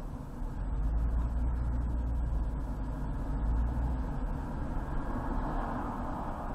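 Road and engine noise of a car driving on a highway: a steady rumble that grows heavier for a few seconds, then a hiss that swells near the end.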